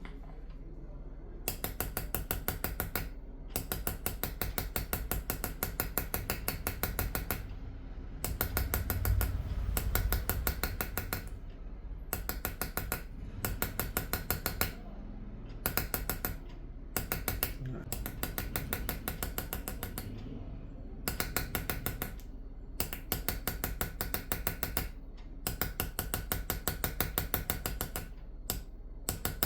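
Qalamzani engraving: a small hammer tapping rapidly on a hand-held engraving chisel as it cuts patterns into a silver dish. The taps come in quick, even runs of a few seconds each, broken by short pauses, over a low steady hum.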